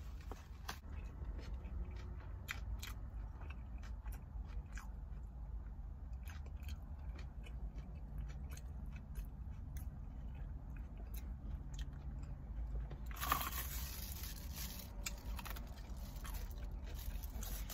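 Close-up chewing and crunching of a crispy fried chicken sandwich, with scattered crisp crunches over a steady low hum. From about thirteen seconds in, paper rustles as a napkin is handled.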